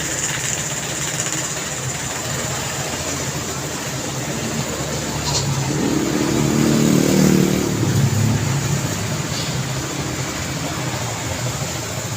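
Steady road traffic noise, with one vehicle's engine passing close and getting louder about halfway through, then fading.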